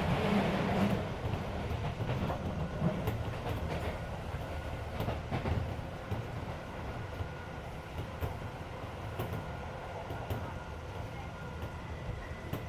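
Keisei 3400 series electric train heard from inside the passenger car while running, with a steady rumble and wheels clicking over rail joints, the rumble easing after the first few seconds. The car's air conditioning runs underneath.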